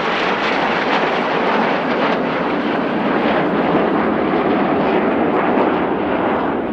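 Loud, steady rushing jet noise from the Red Arrows' BAE Hawk T1 jets, with their Adour turbofans, flying their display.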